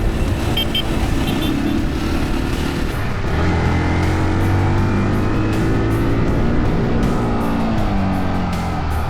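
Yamaha WR155R dirt bike's single-cylinder engine running under way, with wind rumble on the helmet microphone; a steadier pitched note comes in about three seconds in. Background music plays over it.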